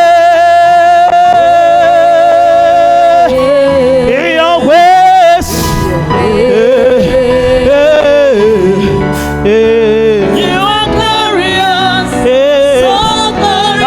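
Gospel worship song: a singer holds long notes over keyboard accompaniment, with a brief sharp noise burst about five seconds in.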